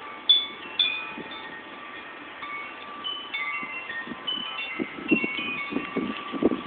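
Wind chimes ringing at random, many short metal notes that ring on, with gusts of wind rumbling on the microphone growing stronger in the second half.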